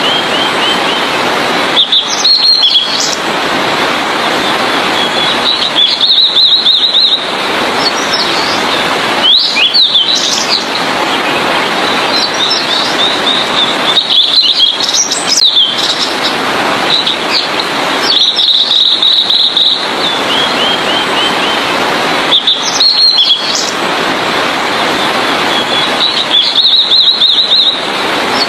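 Blue-and-white flycatcher singing: short, high song phrases repeated every few seconds over a loud, steady hiss.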